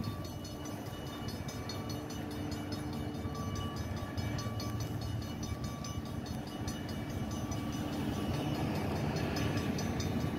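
Distant approaching freight train: a steady low rumble of diesel locomotives that grows gradually louder.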